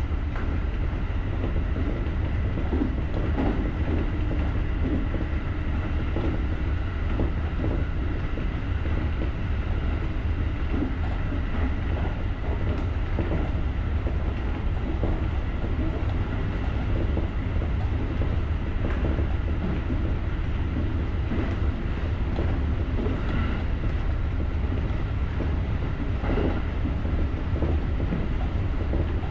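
JR rapid electric train running along the line: a steady rumble of wheels on rail, with faint clicks over rail joints now and then and a faint steady whine above it.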